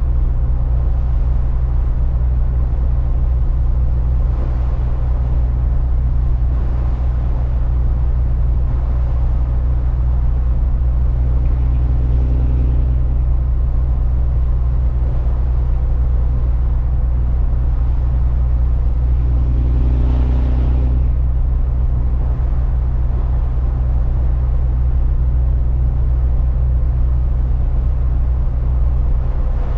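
Truck driving: a steady low rumble of engine and road noise as heard in the cab, with two brief swells of a higher pitched note, about twelve and twenty seconds in.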